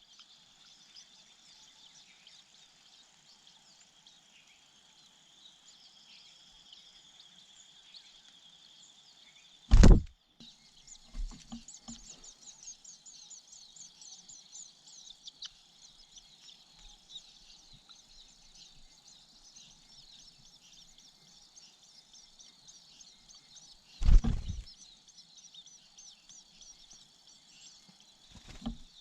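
Outdoor ambience: a steady high insect drone with many quick, high bird chirps, broken by two loud knocks on the microphone, about ten seconds in and again near twenty-four seconds.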